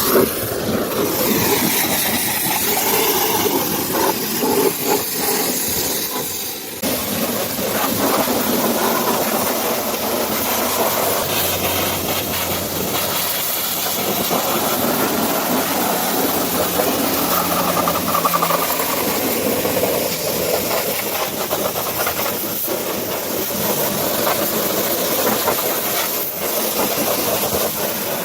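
High-pressure washer jet spraying water, a steady loud hiss with a machine running underneath.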